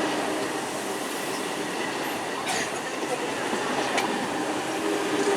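A train running past on the track: a steady, dense rumble and rush of wheels on rail, with two sharp clicks about two and a half and four seconds in.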